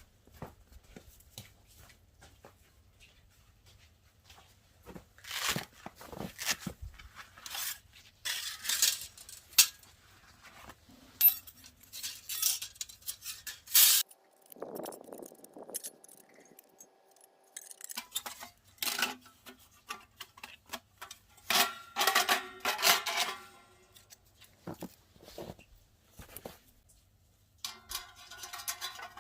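Irregular clinks, knocks and scraping of metal cookware and stove parts being handled, in scattered bursts.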